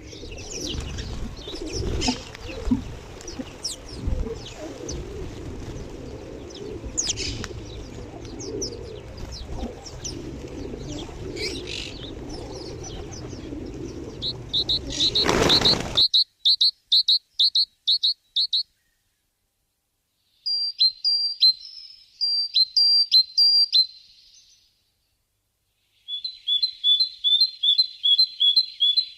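Small songbirds chirping over a low background rumble. About halfway through, the background drops away abruptly, and clear song phrases of rapidly repeated high notes follow in three bursts.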